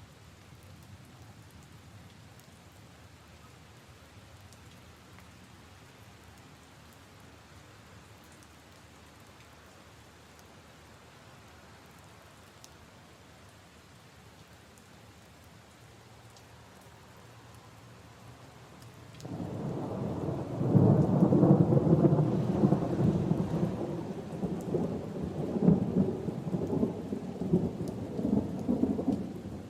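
Steady light rain falling on puddles and leaves, then about two-thirds of the way through a long, loud rumble of thunder sets in suddenly and rolls on, rising and falling in strength.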